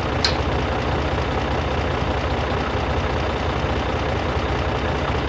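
Tractor engine running steadily at idle, an even low chugging throb.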